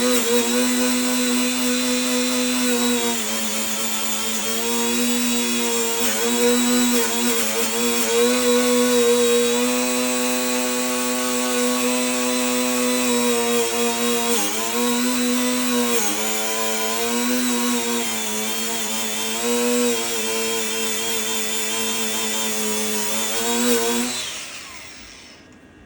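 A high-speed power tool motor running steadily, its pitch sagging briefly a few times as it takes load, then spinning down and stopping shortly before the end.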